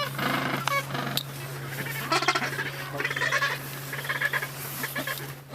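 Penguin colony calling: many overlapping braying, bleat-like calls over a steady low hum.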